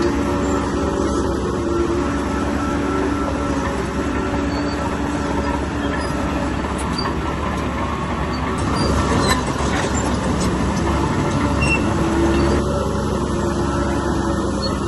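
Bulldozer at work: diesel engine running steadily under the squeal and clank of its steel tracks, with a louder rattling stretch about nine seconds in.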